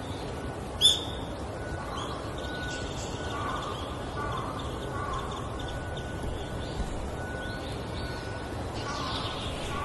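Cartoon bird sounds: one sharp, loud chirp about a second in, then softer scattered bird calls and chirps over a steady outdoor ambience.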